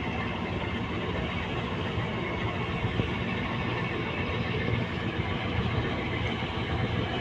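Tugboat's diesel engine running steadily, a constant low drone.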